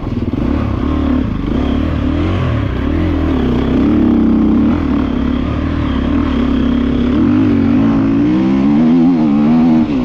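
GasGas EC350F's single-cylinder four-stroke engine heard from on the bike, its pitch rising and falling as the rider works the throttle, with quick repeated climbs in revs near the end.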